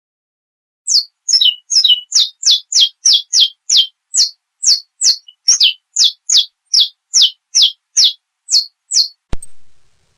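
Saffron finch (canário-da-terra) singing the 'estalo e metralha' song: a long, even series of sharp, high notes, each sweeping downward, about three a second for some eight seconds. A single thump just after the song stops.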